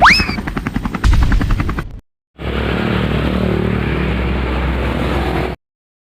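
Helicopter rotor sound effect, a fast even chopping, opened by a quick rising whistle and cut off abruptly about two seconds in. After a brief silence, a steady aircraft engine noise runs for about three seconds and then cuts off.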